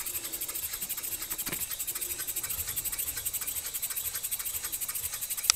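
Small six-cylinder radial model steam engine running on compressed air, a fast, even chatter of exhaust puffs and valve clicks; a sharper click just at the end.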